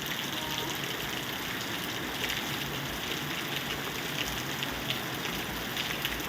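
Steady rainfall, with many small drops pattering through a constant rush of water.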